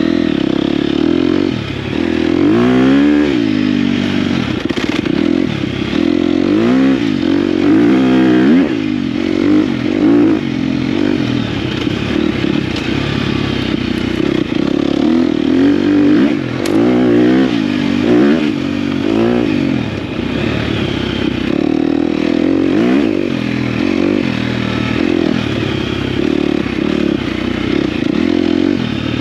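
Dirt bike engine being ridden, its pitch rising and falling again and again as the throttle is opened and closed, with rattling and scraping over rough ground.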